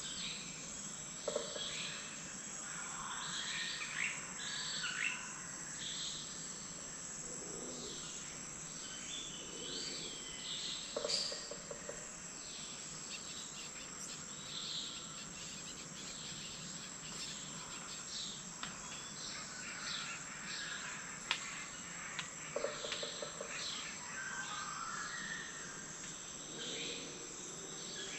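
Lesson's motmot giving its low hooting call a few times, over a steady high-pitched insect drone and other birds chirping.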